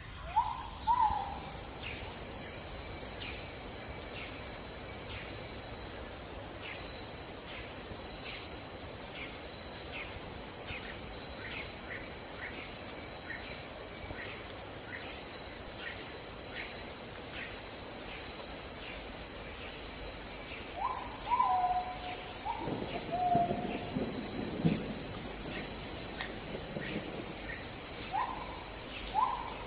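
Evening chorus of insects, a steady high trill that runs on without pause, with a bird giving short falling two-note calls three times: just after the start, about two-thirds of the way through, and near the end.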